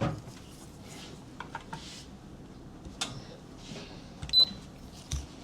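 Scattered clicks and knocks of cups and espresso equipment being handled, with a short high electronic beep about four seconds in.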